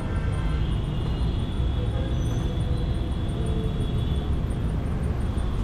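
Royal Enfield Continental GT 650's 648 cc parallel-twin engine and exhaust running steadily while riding, with rumbling low-pitched exhaust and road and wind noise.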